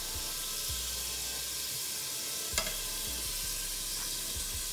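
Seasoned shrimp sizzling in a frying pan with a steady hiss, and one sharp knock of a utensil on the pan about two and a half seconds in.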